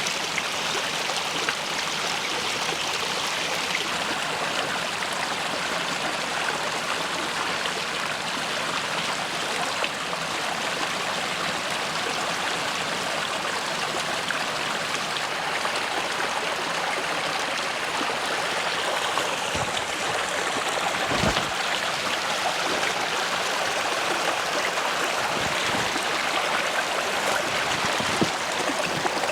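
Steady rushing of running water, with a few soft knocks about two-thirds of the way through.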